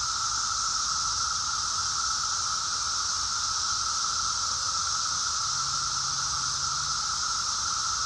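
Chorus of Brood X periodical cicadas, a dense, steady drone that holds level without pause, with one high band and a lower band near 1.3 kHz.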